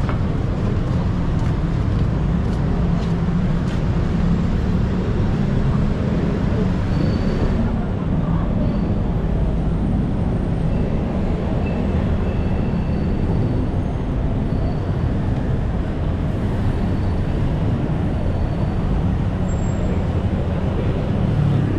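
Steady, unbroken low rumble of vehicle and traffic noise.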